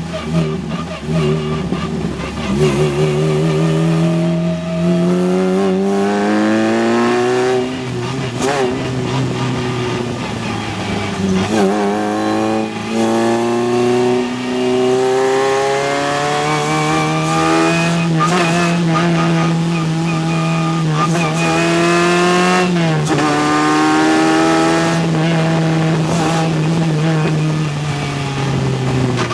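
Formula race car engine accelerating hard, its pitch climbing through each gear and dropping sharply at every shift, with steady high-revving stretches between.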